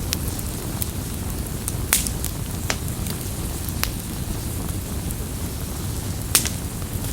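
Campfire burning: a steady low rumble of the flames with sharp crackles and pops of burning wood, the loudest about two seconds in and again near the end.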